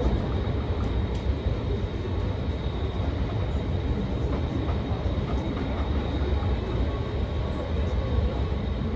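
Old-style passenger coach of the SL Paleo Express running with a steady low rumble as the train arrives at the station.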